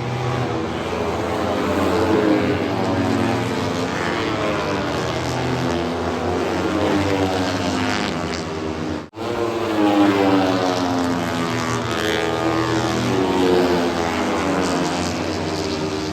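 Racing motorcycles running past on the circuit, several engines at high revs, their pitch sweeping up and falling away as they go by. The sound breaks off for a moment about nine seconds in.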